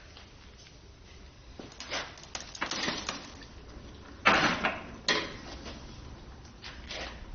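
Clunks and scraping of metal tools and parts being handled, the loudest knock about four seconds in and another just after.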